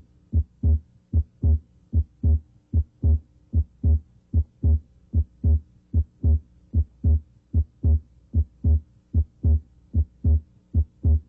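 Normal heart sounds at the left third interspace: a regular lub-dub of S1 and S2 at about 75 beats a minute. During deep inspiration the second sound splits into its aortic (A2) and pulmonic (P2) closure components, the usual physiological splitting.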